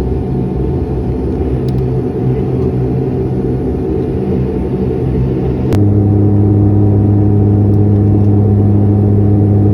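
Steady engine drone of an airliner heard from inside the cabin. About six seconds in, a sharp click is followed by a louder, lower steady hum.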